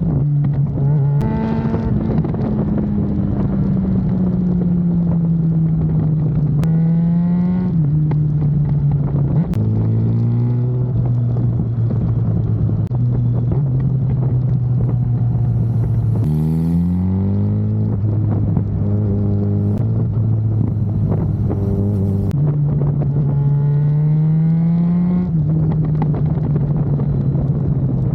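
Yamaha FZ6R's inline-four engine being ridden: its pitch climbs quickly about five times, then holds steady between climbs as it cruises through the gears. A few sharp pops from the exhaust cut through now and then.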